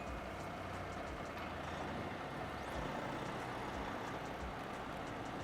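Heavy rotator tow truck's diesel engine running steadily, with a low, even rumble.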